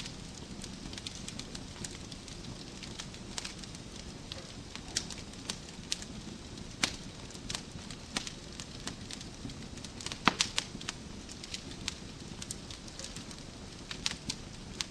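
Wood fire burning in a fireplace: a steady low rumble of flames with irregular sharp crackles and pops, a few louder pops about ten seconds in.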